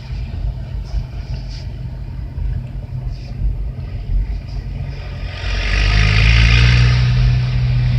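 Motor vehicle engine and road noise running steadily, heard from inside the car. It grows louder about five and a half seconds in, with a stronger hum and more hiss as the vehicles speed up.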